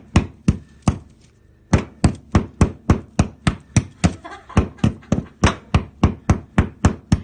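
Hammer striking repeatedly to knock a hole open, three blows, a short pause about a second in, then a steady run of about three to four blows a second.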